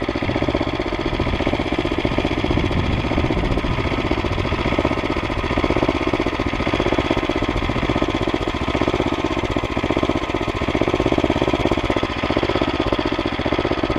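Murray mini bike's Tecumseh single-cylinder engine running steadily as the bike is ridden, its speed rising and dipping slightly. The engine runs with no air filter on its freshly cleaned carburetor.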